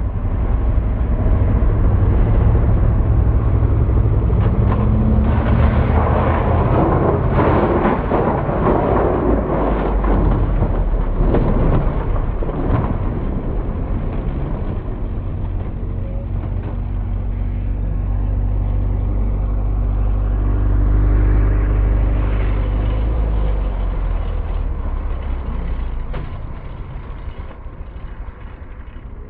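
A road vehicle driving along: a steady, loud low engine rumble with road and wind noise, easing off in the last few seconds.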